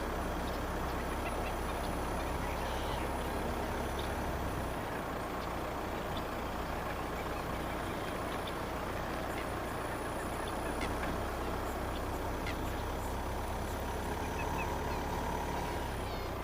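Steady drone of a vehicle driving slowly, engine hum and road noise, with the low hum shifting slightly about five seconds in. A few faint, short, high chirps sound over it.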